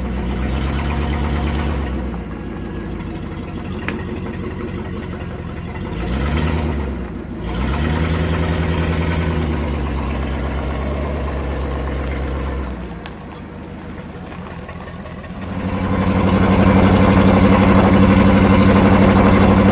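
4x4 truck engine running and revving, its pitch rising and falling, easing off about two-thirds through, then settling into a louder steady drone near the end.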